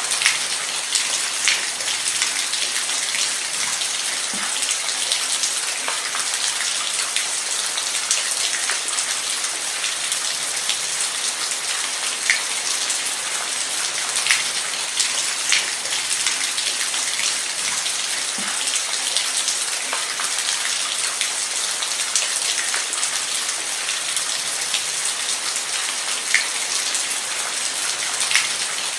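Steady rain: an even hiss with scattered individual drops ticking sharply above it.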